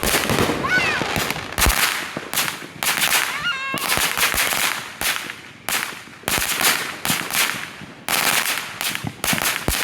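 Consumer fireworks and firecrackers going off all around: irregular sharp bangs, often several a second in quick rattling strings.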